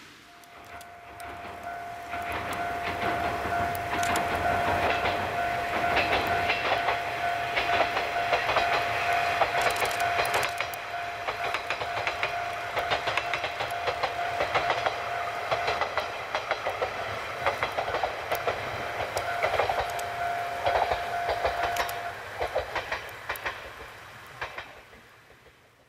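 Two-car Kiha 28 / Kiha 52 diesel railcar train passing: engine rumble and the clickety-clack of wheels over rail joints, building over the first few seconds and fading away near the end. A steady whining tone runs through most of it and stops a few seconds before the end.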